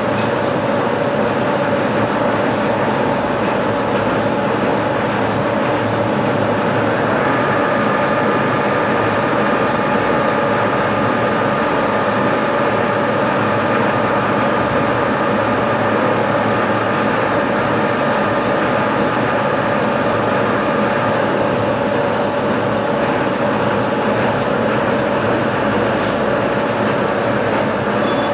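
Metalworking machine tool running steadily, a constant mechanical noise with a low hum. A higher-pitched whine joins about seven seconds in and stops about twenty-one seconds in.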